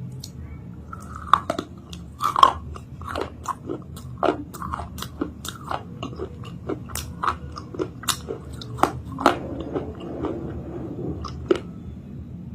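Close-up biting and chewing of a set chalk-paste 'cake', with many irregular crisp crunches and a few louder bites. It is only partly crunchy, the paste still somewhat soft with water.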